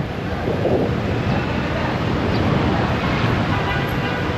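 Street traffic noise: vehicle engines and road noise running steadily, with faint voices in the background.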